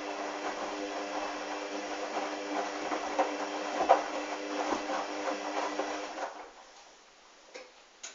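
Hoover washing machine turning its drum during a sudsy towel wash: a steady motor hum with irregular sloshing and clatter from the wet towels tumbling. The drum stops about six seconds in, and a couple of faint clicks follow near the end.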